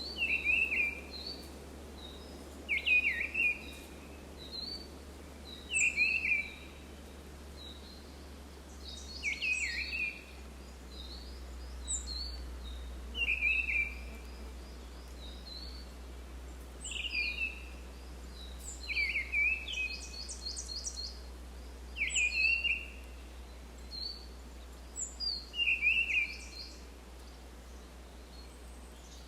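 Forest birdsong: one bird repeats a short falling phrase about every three seconds, with higher chirps and a couple of quick trills from other birds between, over a steady low rumble.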